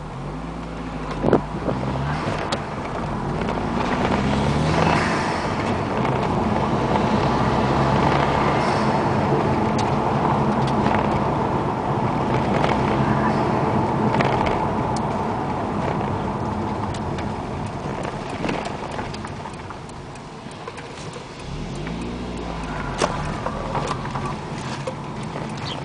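Turbocharged car engine heard from inside the cabin with the windows up, driving under load with tyre and road noise. The engine pitch climbs and falls a few times near the start and again near the end as the revs go up and down, with a few short sharp clicks.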